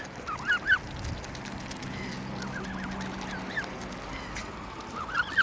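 Waterfowl chicks calling in clusters of short, rising peeps while they take food from a hand. A faint steady low hum sits under the middle.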